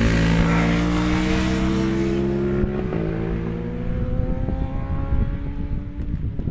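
Racing motorcycle engine passing close and pulling away, its pitch rising as it accelerates while the sound fades. Wind buffeting the microphone takes over in the second half.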